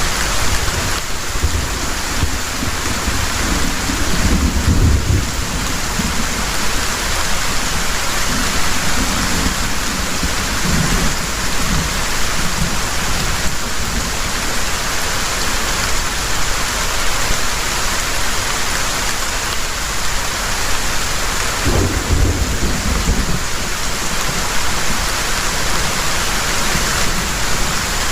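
Heavy rain pouring steadily, with rolling thunder rumbling low about a second in and again past the twenty-second mark.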